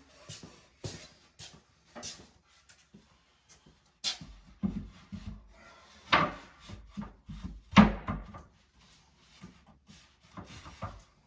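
Cut wooden pieces being handled and set in place: a string of irregular knocks and clacks with short quiet gaps, the loudest about three quarters of the way through.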